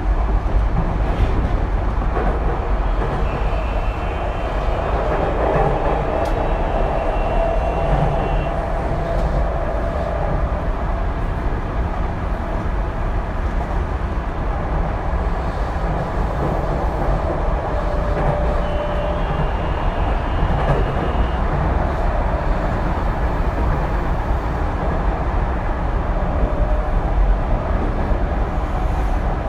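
Tokyu 2020-series electric train running at speed, heard from inside the car: a steady rumble of wheels on rail and running gear. A faint high whine comes and goes twice.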